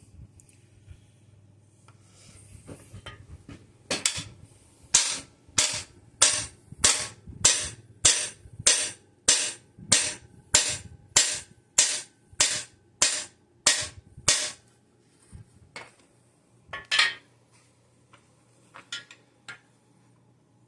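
Hammer blows on a cam bearing installer tool, driving a cam bearing into its bore in the engine block. There are about seventeen sharp metallic strikes at a steady one and a half a second, then a pause, one harder blow and a couple of lighter taps near the end.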